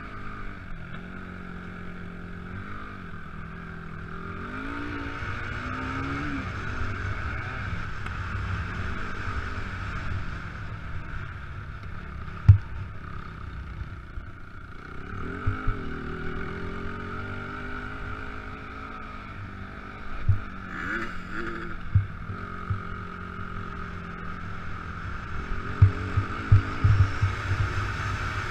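Motocross motorcycle engine revving up and falling back several times, with occasional sharp thumps, the loudest about halfway through and a cluster near the end.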